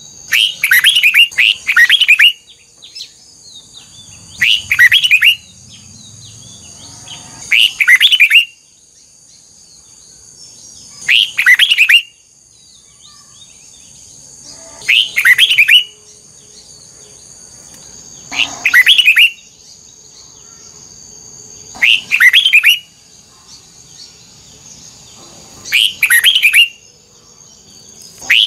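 Red-whiskered bulbul singing short loud phrases of quick, twisting double notes, one phrase about every three to four seconds, eight or nine in all. A faint steady high-pitched tone runs underneath.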